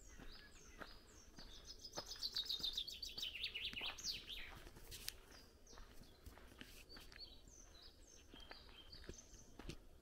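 Songbirds singing: one bird gives a loud, fast trill that falls in pitch and ends with a flourish about two to four seconds in, followed by scattered short high chirps from other birds.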